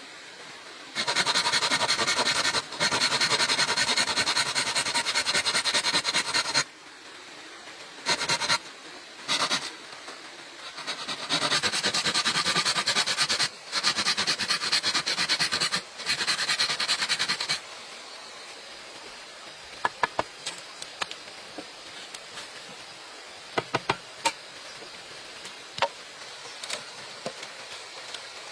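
Bamboo being worked with a blade: several long, loud rasping strokes lasting a few seconds each. After these come scattered light knocks and clicks.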